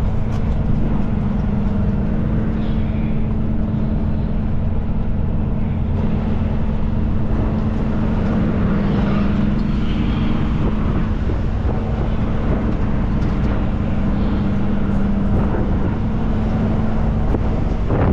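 Semi truck driving on the road: a steady engine hum with road noise.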